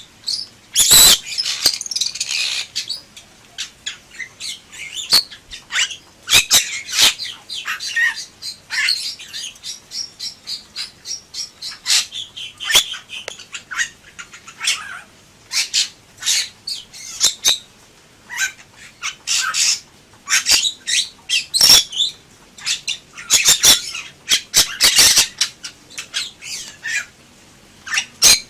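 Bali myna singing in full voice: harsh squawks mixed with sharp clicking notes, in quick irregular runs with a few short pauses.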